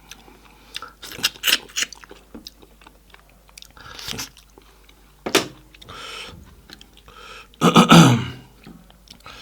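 A person chewing food with the mouth close to the microphone: scattered crunchy, wet bites, with one louder, longer mouth noise just before the end.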